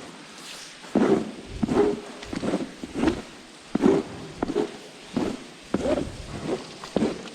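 Footsteps on a hard floor, about three steps every two seconds.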